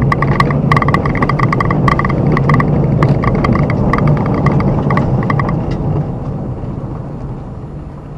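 Car running on a punctured tyre: a repeated gasu-gasu noise from the flat tyre, two to three times a second over the engine and road noise. The pulses stop about five and a half seconds in, and the engine and road noise then fall away as the car slows to a stop.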